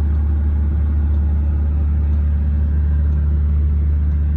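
Volvo 780 semi-truck's diesel engine idling, a steady low drone heard inside the cab.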